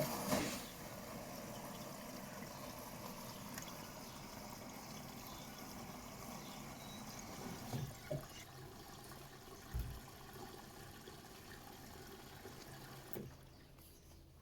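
Washing machine taking in water: a steady rush of water flowing into the machine, opening with a few clicks and cutting off with a click about a second before the end, with a couple of faint knocks midway.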